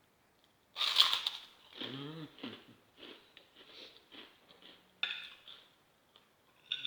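Close-up eating sounds: a spoon clinking and scraping on a plate and the chewing of crispy fried tempeh, a run of small irregular crunches, with a sharp clatter about a second in and again about five seconds in. A short hum of enjoyment is heard near two seconds in.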